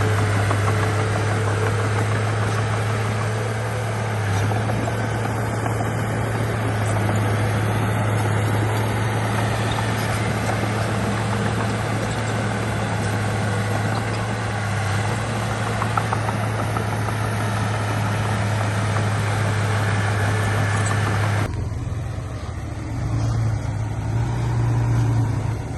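Heavy diesel construction machinery running steadily with a strong low engine hum and wide mechanical noise. About three-quarters of the way through, the sound changes abruptly to a quieter, more uneven engine sound.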